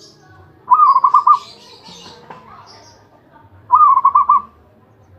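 Zebra dove (perkutut) cooing: two short phrases, each a quick run of four or five pulsed coo notes, about three seconds apart.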